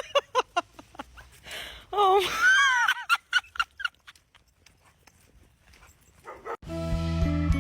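Animal calls: a quick run of short yelps, then a louder wavering whine lasting about a second, then a few more short yelps. Music with a steady beat starts near the end.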